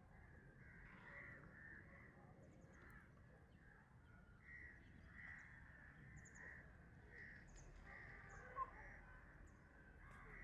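Faint bird calls repeating about once or twice a second, over a low steady rumble, with a single short click near the end.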